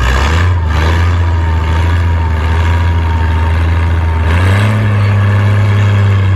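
Competition pulling tractor's engine running hard under load, a loud steady drone that steps up in pitch about four seconds in, with a thin whine above it.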